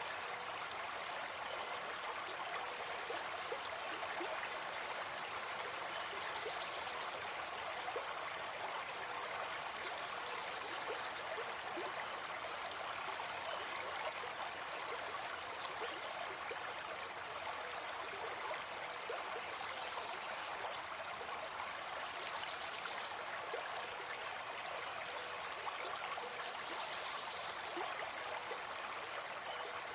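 Gentle forest stream flowing, a steady babble of running water.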